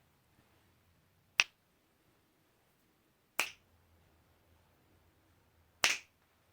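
Three short, sharp clicks or knocks, about two seconds apart, in a quiet room.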